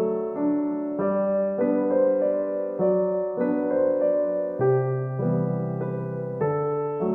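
Background piano music, gentle notes changing about every half second.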